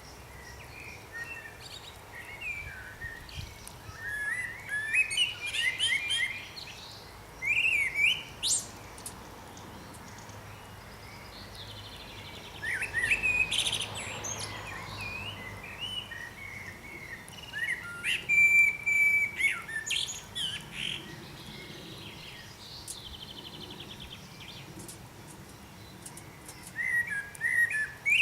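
Small songbirds chirping and singing in several short bursts of quick, high, sliding notes, with quieter gaps between.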